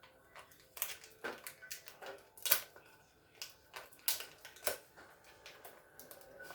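Irregular clicks and taps of small refrigerator parts and wiring being handled, the loudest about two and a half seconds in and twice more a little past four seconds.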